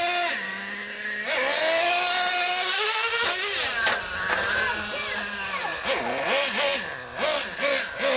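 Small nitro RC truck engines running at high pitch, revving up and down. In the second half they rise and fall quickly as the throttle is blipped.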